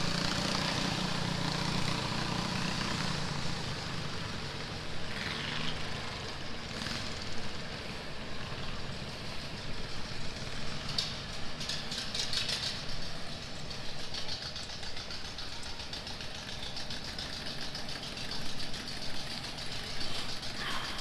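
An engine idling steadily, strongest in the first few seconds and then fading into a general outdoor background, with some faint rattling later on.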